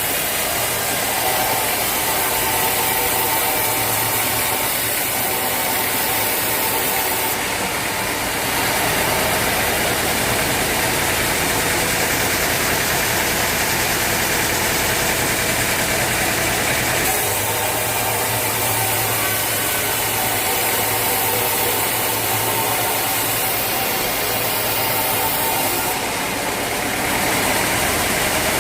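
Sawmill machinery running steadily: a motor hum under a dense hiss. The sound shifts abruptly a few times.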